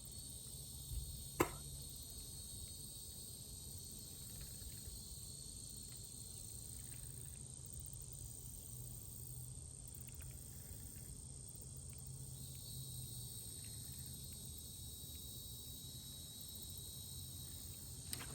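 Insects droning steadily outdoors: a continuous high-pitched buzz with a fainter lower tone under it. There is a single sharp click about a second and a half in, over a low steady rumble.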